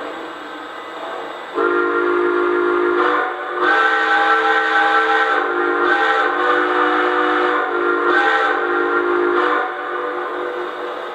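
Chime steam whistle from a model O-scale locomotive's sound system, sounded as a series of long and shorter blasts over a steady hiss.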